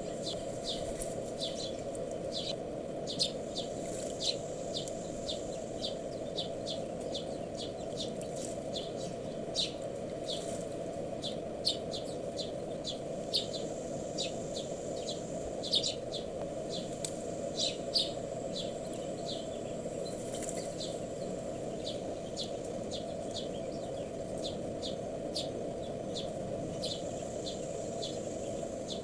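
Small wild birds chirping: many short, high chirps in quick, irregular succession, thinning out in the last third, over a steady low rushing background noise.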